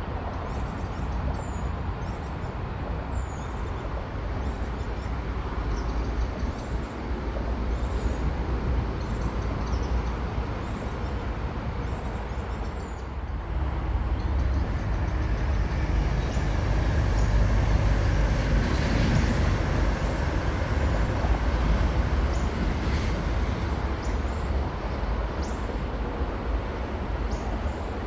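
High-speed train passing, a steady rumble and rushing hiss that swells about halfway through, stays loud for several seconds, then eases slightly. Short high bird chirps sound early on.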